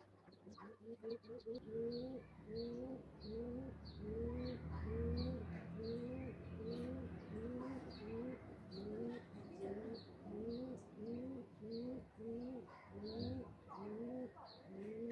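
A bird cooing over and over in a steady rhythm, about one and a half coos a second, each rising in pitch and then levelling off, with a short high chirp on each.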